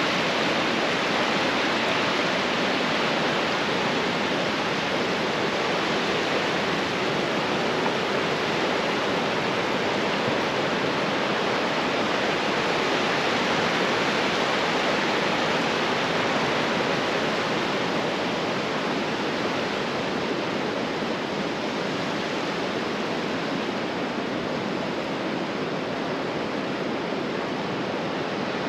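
Ocean surf on a beach: a steady, even rush of waves.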